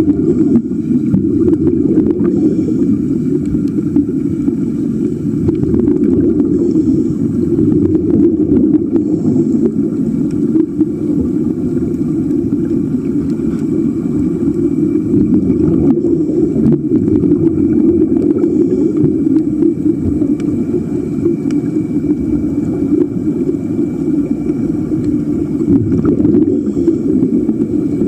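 Steady, muffled underwater rumble from a sea walk, with a faint steady high tone above it.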